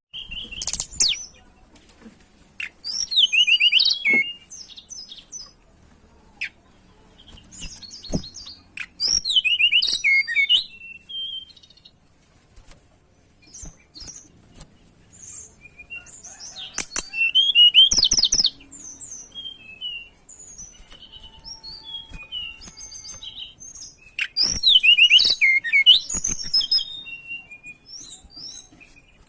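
Tledekan gunung songbird singing loud, fast, high warbled phrases about two seconds long, every six to eight seconds, with softer scattered chirps between.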